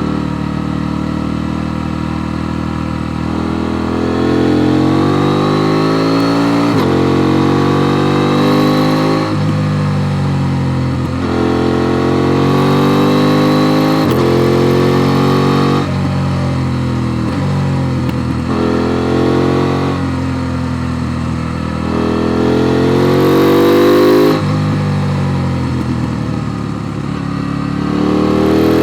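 KTM 890 Duke R's parallel-twin engine under hard acceleration on a ride. Its note climbs through each gear and drops sharply at each shift, many times over, with a brief easing off the throttle near the end.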